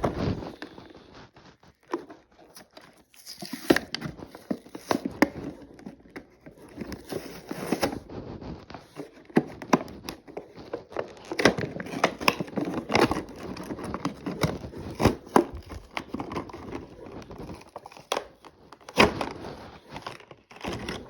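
Toy packaging being opened by hand: plastic and cardboard crinkling, crackling and tearing in irregular bursts of clicks and rustles, with a brief lull about two seconds in.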